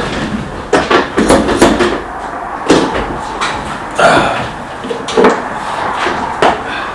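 Scattered, irregular knocks and clunks, like handling and shifting things around a truck.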